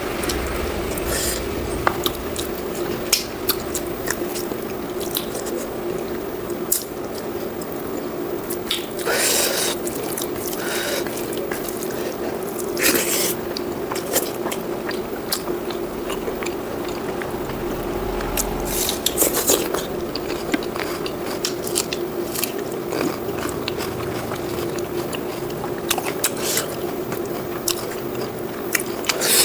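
Close-miked mouth sounds of someone eating pork curry with rice: chewing and biting, heard as many short, irregular clicks and smacks, with a few longer noisy bursts.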